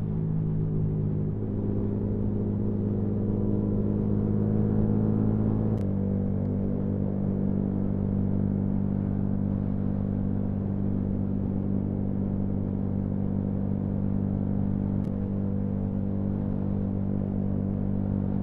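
Yamaha MT-125's single-cylinder four-stroke engine running steadily at cruising speed under way. A gear change comes about six seconds in, after which the note sits a little lower and holds steady.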